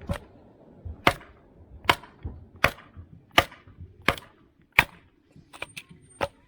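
Wood being chopped: seven sharp strikes about three-quarters of a second apart, then a few lighter ones near the end.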